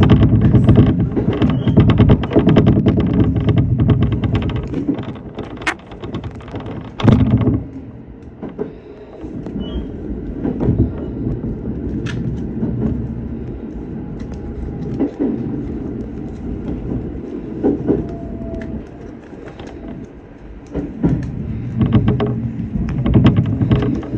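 Electric commuter train running along the track: a steady low rumble with wheel clatter over the rails, and a sharp knock about seven seconds in.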